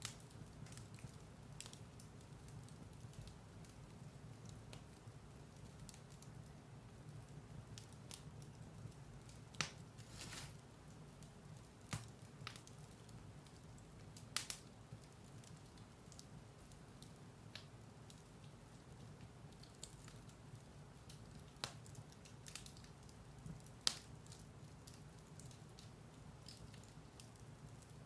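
Firewood burning in a fireplace: a low, steady rush of flame with sparse sharp crackles and pops, the loudest late on.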